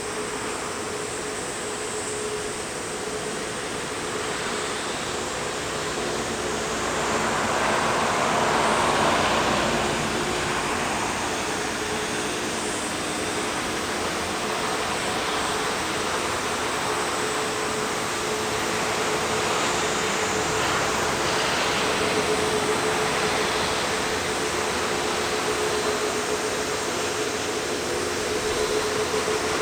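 Jet engines of a four-engined Airbus A380 running, heard from outside as a steady rushing roar with a constant humming tone. It swells briefly about eight seconds in.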